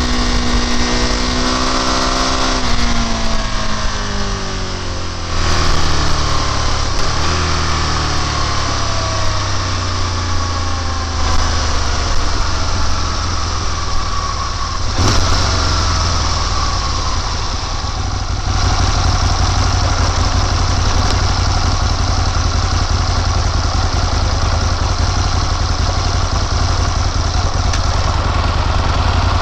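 Motorcycle engine under way, its pitch climbing and then falling in several sweeps as the rider works the throttle and gears. About two-thirds of the way in, a steady rushing noise takes over and the engine becomes less distinct.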